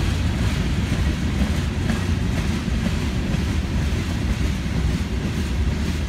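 Freight cars of a passing manifest train rolling by: tank cars, a boxcar and covered hoppers. Their steel wheels on the rail make a steady low rumble with a few faint clicks.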